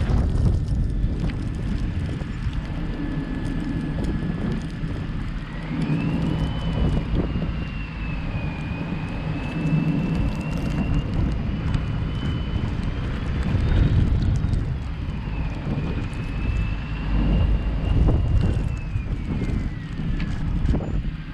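A car driving: steady low road and engine rumble, with a thin high whine that slowly rises and falls.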